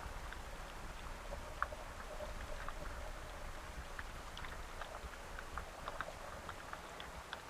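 Steady rain, heard as a soft hiss with many scattered sharp drip ticks of individual raindrops landing close by.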